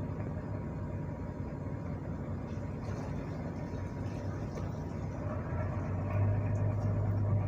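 Ship's machinery running with a steady low drone, growing louder about six seconds in.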